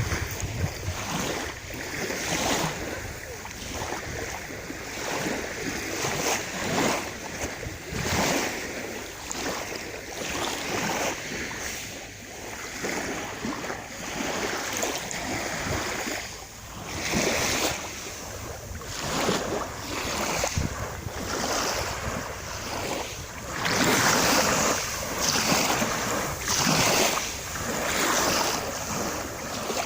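Sea waves washing onto the shore, rising and falling in surges, with wind buffeting the microphone.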